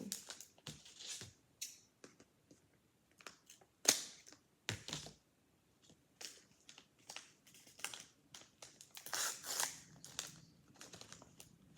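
A handmade blind bag being opened by hand: scattered rustling and sharp clicks, the loudest click about four seconds in, with a busier stretch of rustling near the end.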